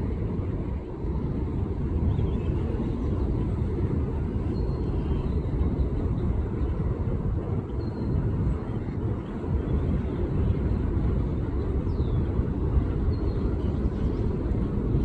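Wind buffeting the microphone: a steady, jittery low rumbling noise.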